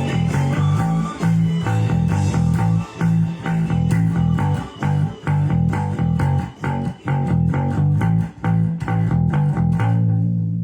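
Electric bass guitar played along to a rock recording, its notes loud and steady under the band. Near the end the recording drops out and the bass carries on alone for a moment.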